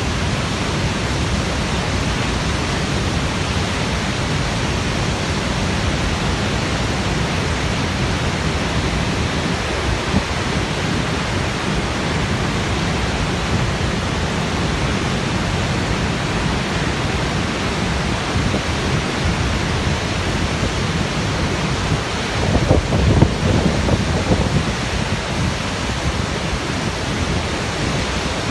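Steady roar of Jog Falls, a large waterfall's water crashing down, heard as an even rushing noise. It swells briefly with a deeper rumble a few seconds before the end.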